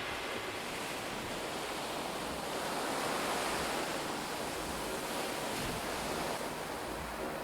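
Sea waves washing in: a steady rush that swells twice and eases off.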